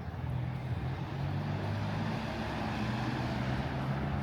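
A motor vehicle passing on the street: a low engine hum with tyre noise that swells in the middle and eases off toward the end.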